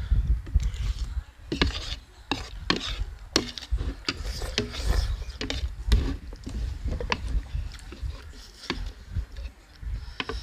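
Close-up noodle-eating sounds: chewing and mouth noises with many sharp, irregular clicks, as of utensils on the bowl.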